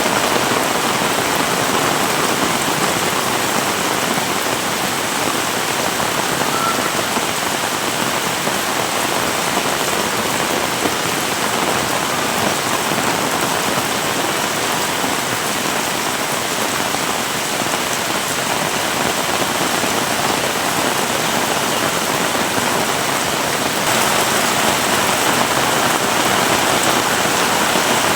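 Heavy rain pouring down, a dense, steady hiss of water on surfaces that grows slightly louder near the end.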